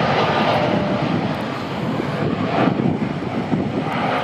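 Boeing 787 Dreamliner's turbofan engines at takeoff power during departure: a loud, steady jet noise that eases slightly toward the end.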